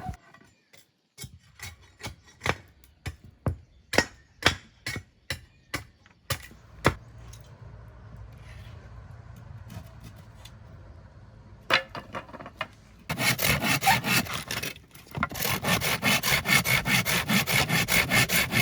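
Hand saw cutting through wood in quick, even strokes, starting about two-thirds of the way in. Before that comes a run of separate sharp knocks on wood, then a quieter stretch.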